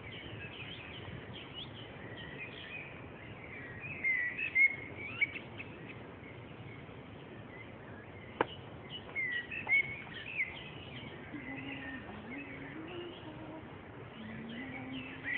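Birds chirping in short gliding calls, louder in spells, with one sharp click about eight seconds in and a low steady hum in the last few seconds.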